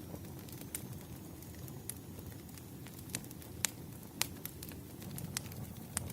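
Wood fire crackling: irregular sharp pops and snaps over a steady low rumble of burning logs, with two louder pops a little past the middle.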